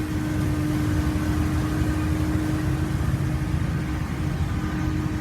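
A 1999 Dodge Ram 3500's 5.9-litre gasoline V8 idling steadily: an even, low rumble.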